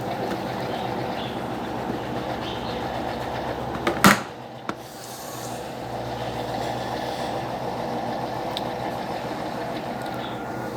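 Electrolux LTE12 top-loading washing machine running mid-cycle with a steady hum and churn, broken by one sharp click about four seconds in and a brief drop in level before the noise picks up again.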